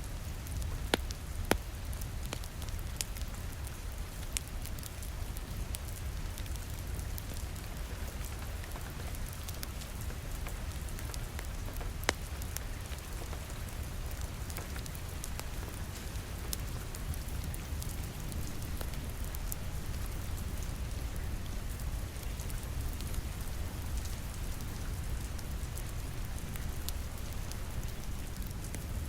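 Steady rain falling against a window over a low rumble, with an open wood fire crackling: scattered sharp pops, the loudest about a second in and again about twelve seconds in.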